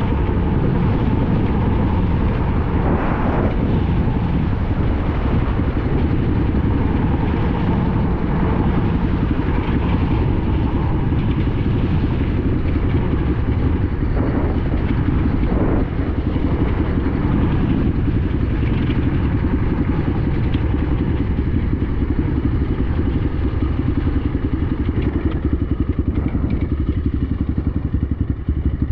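BSE Z5 enduro dirt bike's single-cylinder engine running steadily while the bike is ridden, with a few short knocks.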